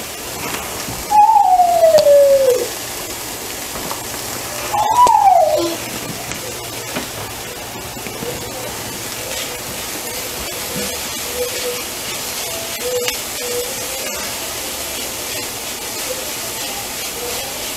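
Onions frying in oil in a cast iron skillet, a steady sizzle. Early on it is crossed by two short gliding tones, one falling and one rising then falling.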